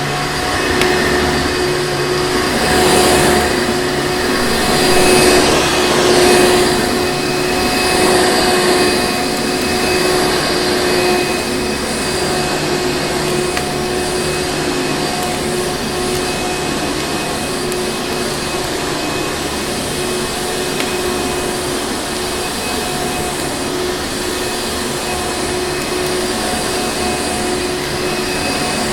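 Vacuum cleaner running steadily: a constant motor whine over a rush of air. The air rush swells and fades several times in the first third, then holds even.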